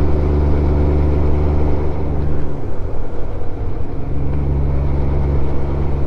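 Honda Gold Wing 1500 motorcycle's flat-six engine running at a steady cruise under wind and road noise. About two and a half seconds in, the engine tone fades out for over a second, then comes back steady.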